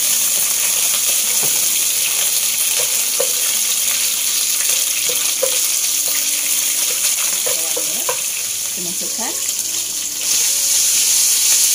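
Shrimp, garlic and bird's eye chilies sizzling steadily in hot oil in a frying pan, stirred with a wooden spatula. About ten seconds in the sizzle gets louder as drained spaghetti goes into the pan.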